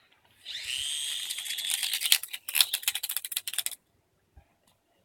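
Spinning helicopter toy being wound up: a high whirring with a slowly rising whine, breaking into a run of fast clicks that stops abruptly near the end.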